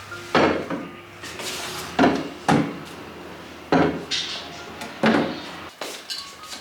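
Dishes and kitchenware being handled: a series of sharp clattering knocks, about five loud ones spaced roughly a second apart with smaller clinks between.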